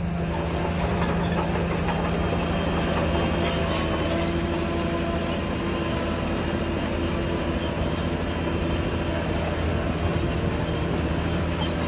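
Heavy diesel earthmoving machinery running steadily at a constant engine pitch, with no strong knocks or pauses.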